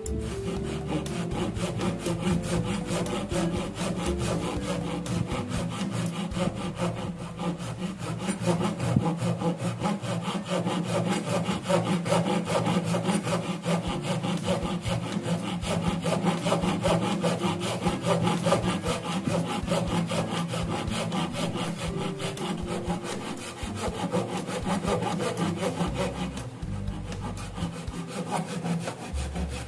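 Saw cutting through wood in a steady, continuous run of strokes.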